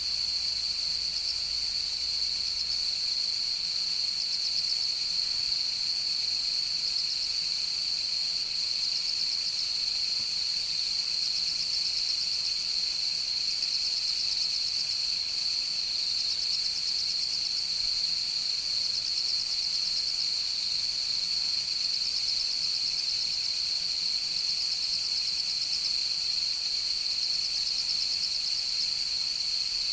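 Chorus of autumn night insects: a steady high-pitched trill, with rapid pulsed chirping phrases from other insects coming and going over it every few seconds.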